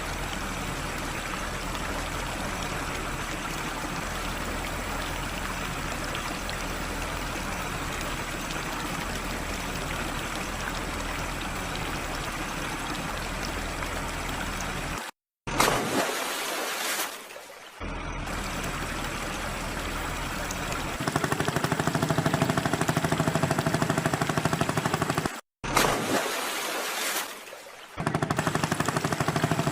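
Vehicle engine running: first a steady rumbling hum, then, after two abrupt cuts each marked by a brief loud swell, a louder fast rhythmic chugging like an idling tractor engine.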